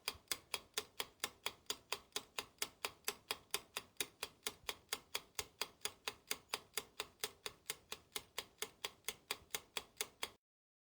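Ticking clock sound effect: a steady, even tick about four to five times a second, which cuts off suddenly near the end.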